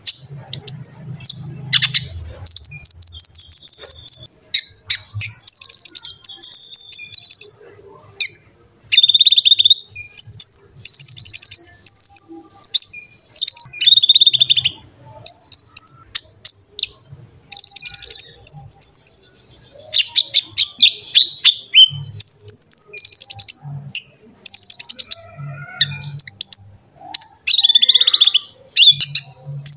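A konin (kolibri ninja) sunbird singing in full voice. Rapid, high-pitched chirps and trills come in short phrases, one after another, with barely a pause.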